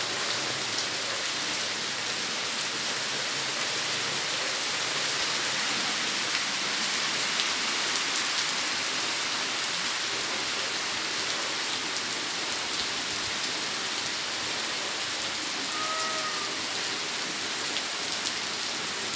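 Steady rain falling in a light, passing shower.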